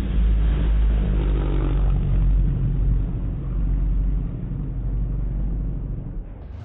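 Subaru car's engine running steadily with a deep low rumble, easing off slightly near the end.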